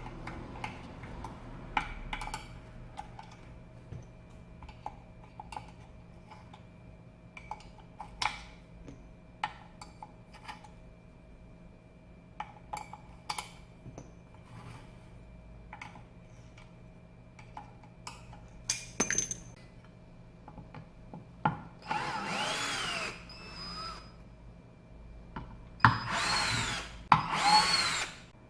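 Scattered small clicks and taps of handling, then a power screwdriver spinning in three short runs near the end, its whir rising and falling in pitch.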